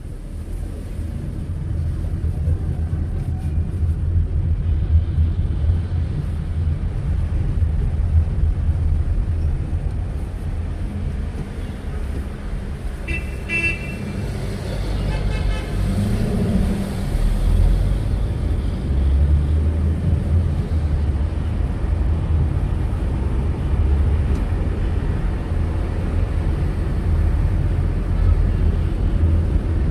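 City road traffic: a steady low rumble of vehicles on the move, with a car horn tooting briefly about halfway through.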